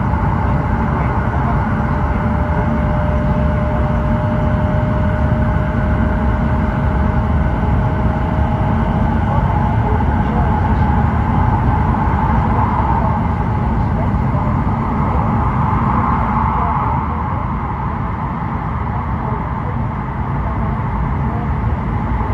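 Cabin noise inside an E7 series Shinkansen running at speed: a loud, steady low rumble and rush. A thin steady whine runs through it for the first nine seconds or so.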